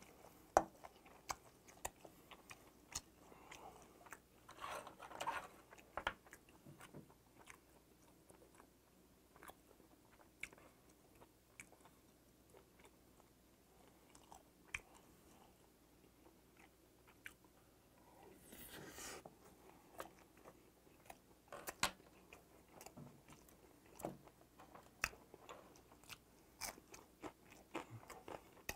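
Faint, close-up chewing and biting of a mouthful of bibimbap (mixed rice), with scattered small clicks and taps as a wooden spoon and chopsticks work in a stainless steel bowl. A brief rustling swish comes about two-thirds of the way through.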